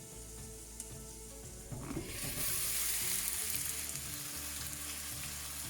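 Marinated chicken pieces frying in coconut oil in a clay pot, a steady sizzle that grows much louder about two seconds in.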